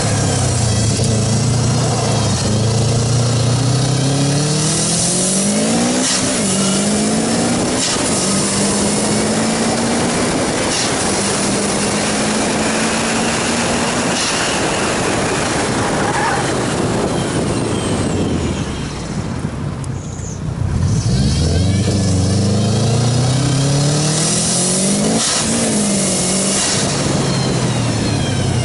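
A car's engine heard from inside the cabin, revving hard up through the gears: the pitch climbs and drops back at each upshift, then holds steady at high speed. About two-thirds of the way through, the engine note falls away briefly as the car comes off the throttle, then it revs up and down again as the car slows.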